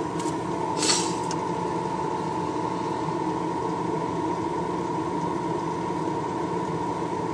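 A small electric motor in the airbrushing setup runs steadily, a constant hum with one even mid-pitched tone. A short hiss comes about a second in.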